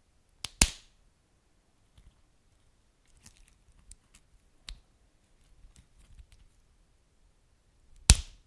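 Wood fire crackling: two sharp, loud pops about half a second in, scattered faint crackles through the middle, and another loud pop near the end.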